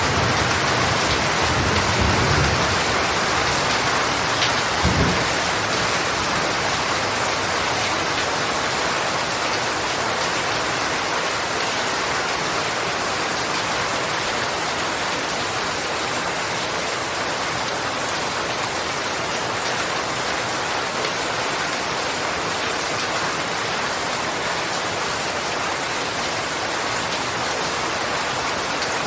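Steady, heavy rain falling, a dense even hiss. A low rumble of thunder sounds in the first few seconds, with a short low thump about five seconds in.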